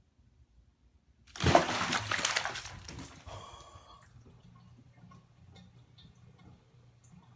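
A sudden loud splash of water about a second in, followed by sloshing that fades over a couple of seconds.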